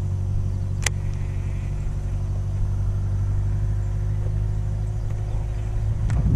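Bass boat outboard motor running steadily at low speed, a low even hum, with a single sharp click about a second in.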